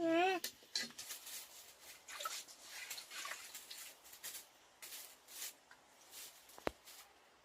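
A short wavering bleat at the start. It is followed by scattered light clicks, taps and scraping from handling work, and one sharp knock near the end.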